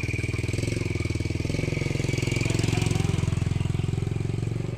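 200 cc drag-race motorcycle engine running at a steady fast idle, with an even rapid pulse, while its carburettor setting is being searched for.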